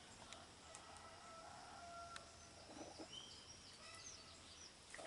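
A broody hen and her newly hatched chicks calling faintly: a long low drawn-out note, then a few short high peeps near the middle.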